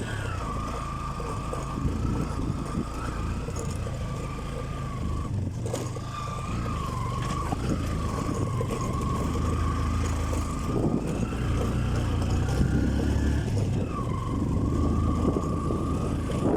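Motorcycle being ridden over a rough road, its engine running steadily with a continuous high whine over it that dips in pitch a couple of times.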